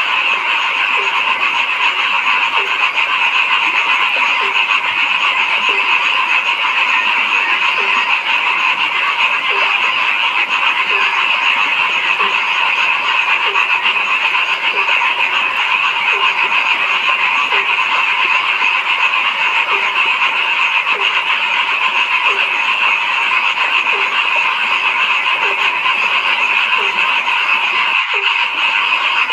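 A dense chorus of frogs calling without pause. One deeper croak repeats at an even pace of about once a second, and there is a brief break just before the end.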